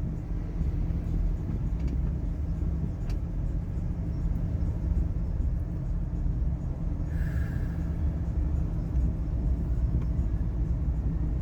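Steady low rumble of a car's engine and tyres heard from inside the moving cabin.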